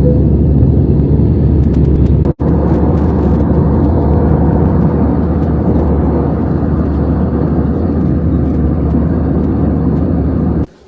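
Passenger aircraft cabin noise: a steady, loud, low rumble of jet engines and rushing air heard from inside the cabin. There is a momentary dropout a couple of seconds in, and the sound cuts off abruptly near the end.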